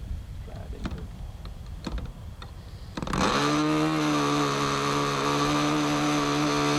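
Small model-airplane glow engine starting up abruptly about three seconds in, then running loud and steady at a high, even pitch. Before that there are only faint clicks.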